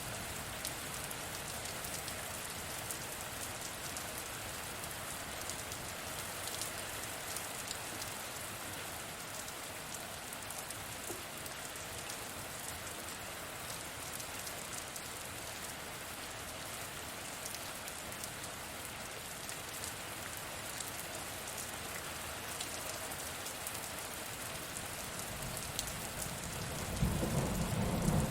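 Steady rain, a dense even hiss with scattered fine drop ticks. About a second before the end, a low rumble of thunder swells up.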